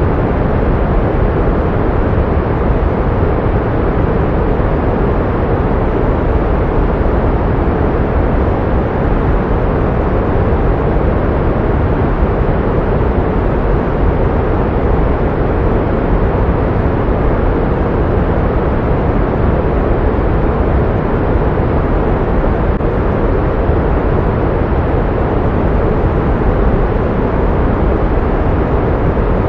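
Steady pink noise: an even, unchanging hiss weighted toward the low end, played as a masking sound for tinnitus.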